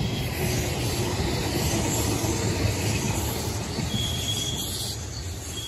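Meitetsu electric commuter train passing close by: a steady rumble of wheels on the rails that peaks and then fades as the train moves away. A thin high wheel squeal comes in about four seconds in.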